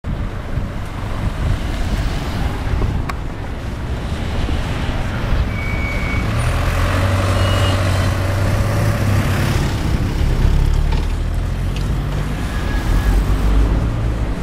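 Road traffic noise: motor vehicles running, with a steadier engine hum through the middle stretch.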